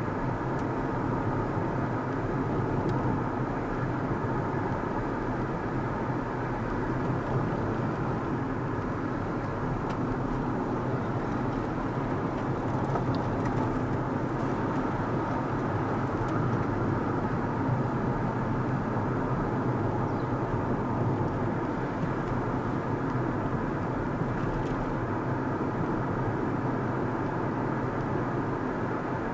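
Steady road noise of a car driving at an even speed: tyres on the road and the engine, with no change in level.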